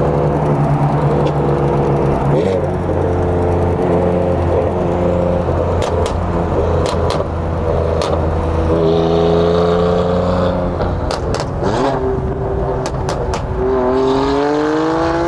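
Car engine revving: held at steady engine speeds in steps, then climbing near the end and dropping off, with several sharp cracks in the middle.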